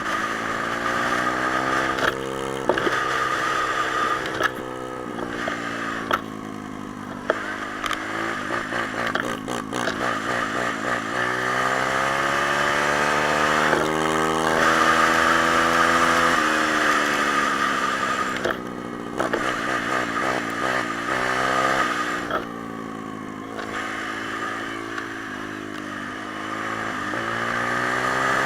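Pit bike single-cylinder engines running under riding load, their revs rising and falling repeatedly. At times a second bike's engine, at a different pitch, runs alongside the first.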